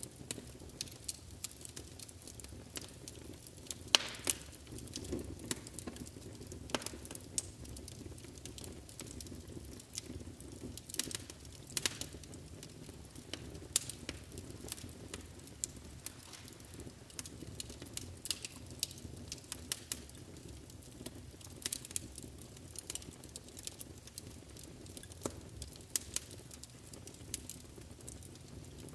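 Wood fire burning in a fireplace, a low steady rumble of flames under frequent sharp, irregular crackles and pops, a few of them louder.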